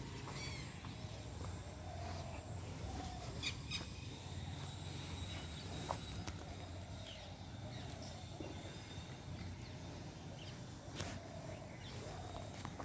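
Outdoor ambience: scattered short bird chirps and calls over a low steady rumble, with a few faint clicks.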